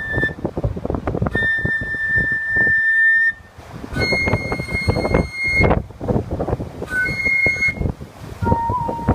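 An umebue (梅笛) flute playing long held notes, a high note twice, then a slightly higher note twice, then a lower note near the end, over heavy wind gusts buffeting the microphone.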